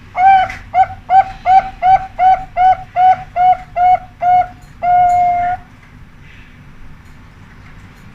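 Zebra dove (perkutut) singing: a run of about eleven short, clipped cooing notes, each slightly bent in pitch, then one longer held note as the end phrase ('ujung') of the song.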